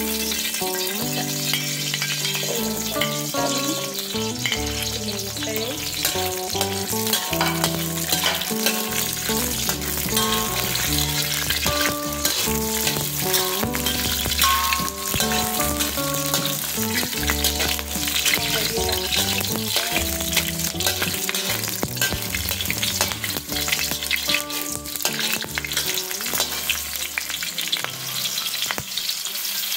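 Whole garlic cloves and small red chillies sizzling in hot oil in a metal wok, stirred now and then with a metal spatula scraping the pan. Background music with stepped, piano-like notes plays underneath.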